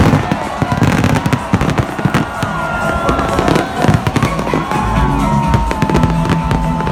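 Fireworks and firecrackers banging and crackling in rapid, dense succession, over music playing underneath.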